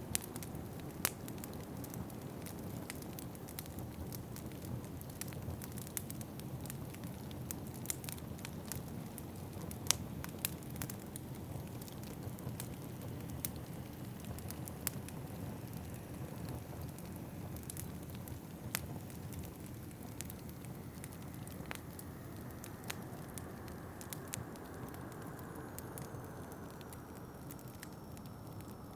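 Wood fire crackling in a fireplace, with irregular sharp pops and snaps over a steady low rush. Near the end a faint high whistle slowly slides down in pitch.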